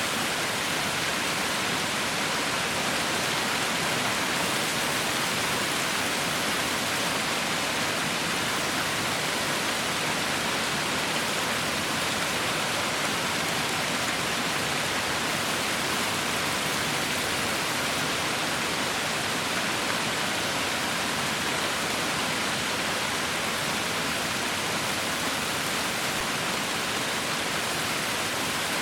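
Heavy rain falling as a steady, even hiss with no distinct drops, thunder or other events.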